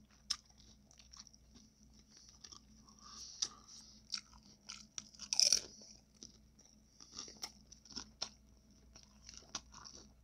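A person eating a taco close to the microphone: irregular crunching and chewing, with one loud crunch about five and a half seconds in.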